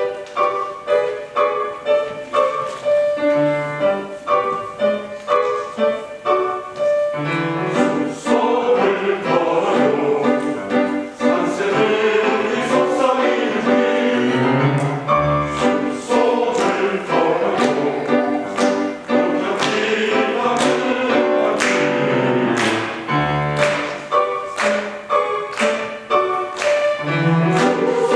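Choir singing with piano accompaniment: the piano starts suddenly with a steady run of notes, and the music grows fuller from about eight seconds in.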